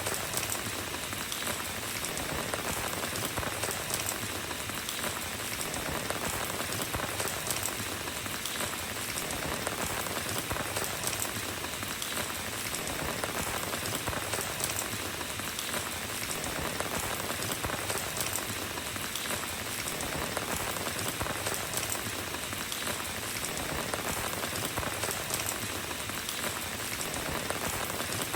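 Steady rain falling and pattering on a road surface, an even dense hiss of many small drops.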